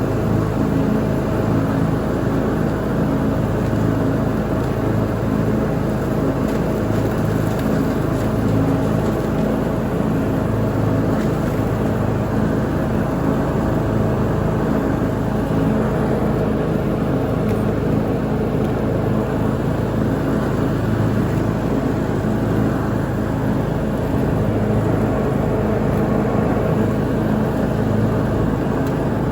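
Lawn mower engine running at a steady speed during mowing, its hum holding even and unchanging.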